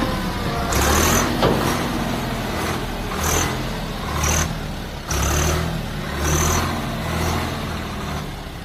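Tractor diesel engine running hard under load, its note swelling in repeated surges about once a second.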